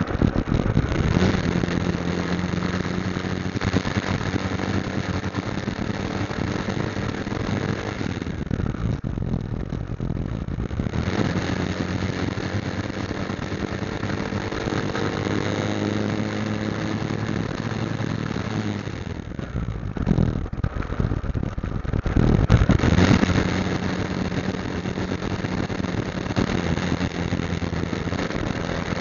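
Motorcycle engine running under way at a steady note, with a continuous hiss behind it. The engine note shifts a few times and swells louder about two-thirds of the way through.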